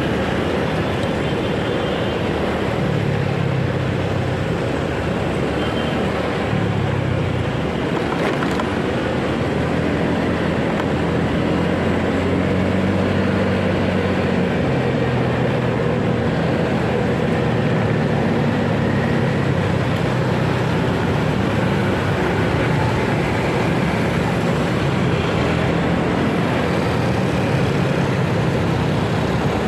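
Motorcycle engine running while riding through city traffic, its note rising and falling with the throttle over steady road noise.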